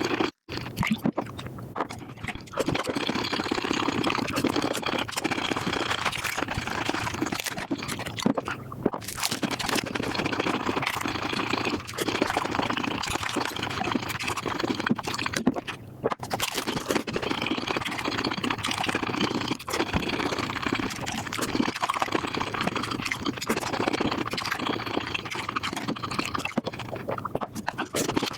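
Mukbang eating sounds sped up five times: a rapid, dense run of chewing and crunching clicks.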